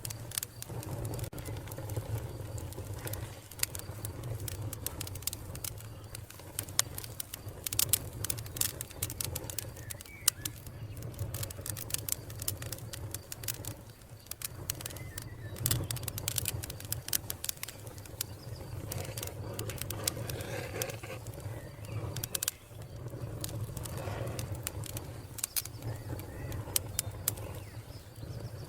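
Fire crackling, with many irregular sharp pops over a steady low rumble, the pops bunching more thickly a quarter and half way through. Birds call faintly in the background.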